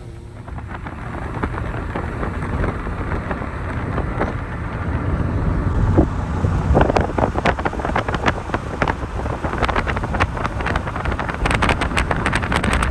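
Wind buffeting the microphone outdoors: a low rumbling rush that grows stronger and gustier about halfway through, with crackling pops.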